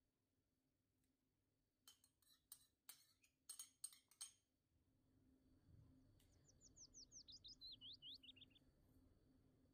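Faint clinks of a metal spoon against a small ceramic dish, a run of sharp taps about two seconds in. Then a small songbird sings a quick run of about a dozen falling chirps.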